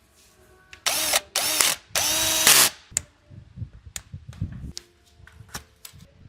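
Handheld power tool run in three short bursts, its motor pitch rising at the start of each, as fasteners are worked on the engine. Light clicks and knocks of tools follow.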